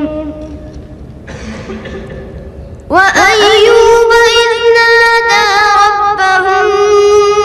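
A high voice reciting melodically in the style of Quran recitation. After a quieter pause between phrases, a long held, ornamented line begins about three seconds in, its notes sliding into place.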